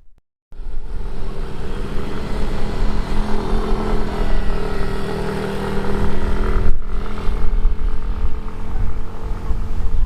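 Aircraft engines running: a loud, steady drone with several held tones over a low rumble from wind on the microphone. It starts after a brief moment of silence and changes abruptly about two-thirds of the way through.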